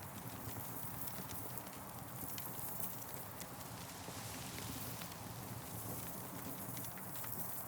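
Campfire burning, with frequent small, irregular crackles and pops over a steady hiss.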